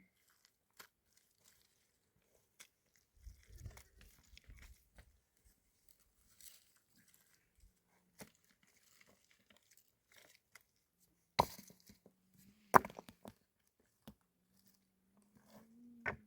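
Scattered rustling, crunching and handling noises, with two sharp knocks about a second apart past the middle.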